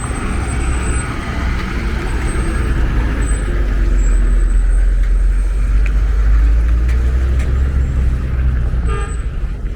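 Road traffic with a heavy vehicle's deep engine rumble, swelling to its loudest in the middle and easing off near the end.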